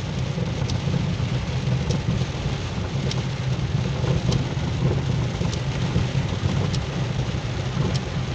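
Rain and road noise inside a moving car with a window partly open: a steady low drone of engine and tyres under an even hiss of rain and wind. A faint tick comes about every second and a quarter.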